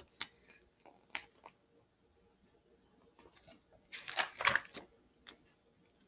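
Paper rustling as the pages of a picture book are handled and turned, with a few small clicks early and a louder rustle about four seconds in.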